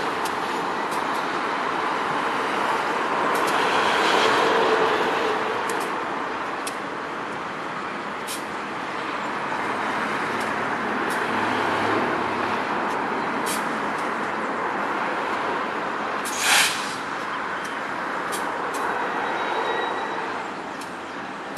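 Heavy freight train rolling slowly through a rail yard: a steady rumble of wagons on the rails, with scattered clicks and one short, loud burst of hiss about two-thirds of the way through.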